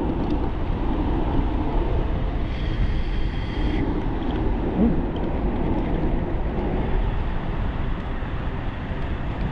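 Steady wind rumble on the microphone of a moving e-bike, with a brief higher hiss and a thin squeal a few seconds in.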